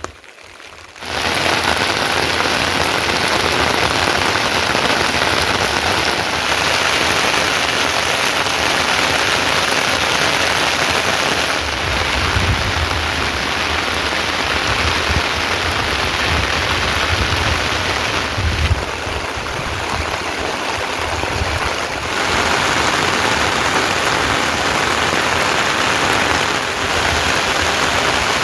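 Steady rain falling, a dense even hiss that starts about a second in and shifts in strength a few times.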